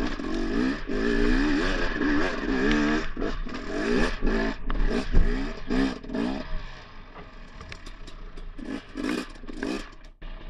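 Dirt bike engine revving up and down over and over as it is ridden. It is loud for about the first six seconds, then drops back, with a few short blips of throttle near the end.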